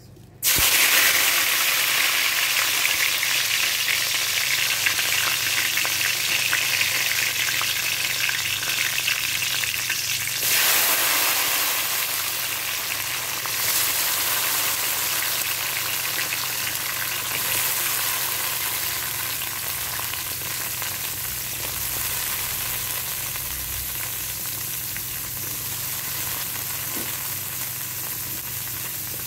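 Diced carrots, peas, green beans and curry leaves frying in hot oil in a metal wok, a steady sizzle. It starts suddenly, rises again about ten seconds in, then slowly grows quieter.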